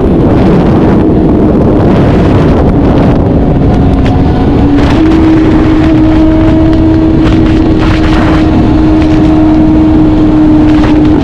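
Inline-four sport bike engine running at steady highway speed, buried in heavy wind noise on the microphone; its pitch steps up slightly about five seconds in and then holds.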